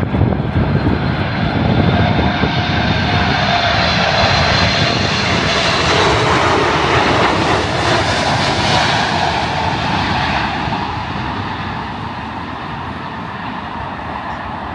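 Boeing 747 jumbo jet passing low overhead as it comes in to land: a loud rushing engine noise with a faint high whine, fading away over the last few seconds.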